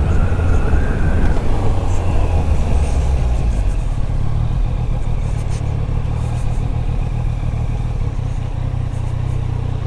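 Yamaha Niken's three-cylinder engine running under way on its stock exhaust, a steady low rumble, shifting slightly in pitch about four seconds in.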